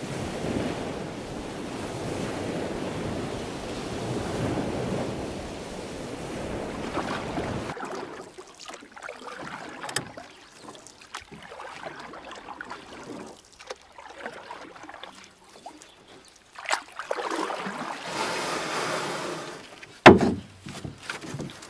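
Wind buffeting the microphone, a dense rumble that cuts off abruptly about eight seconds in. After that come scattered small clicks and rustles, and a sharp knock near the end.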